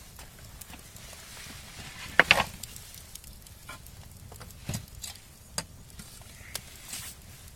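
Firewood burning, crackling and popping with scattered sharp snaps. A louder clatter of wood about two seconds in, and a smaller knock near the middle.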